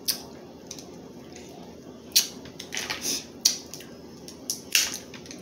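Crab leg shells cracking and snapping as they are broken open and eaten: a handful of sharp cracks, the loudest about two, three and a half and five seconds in.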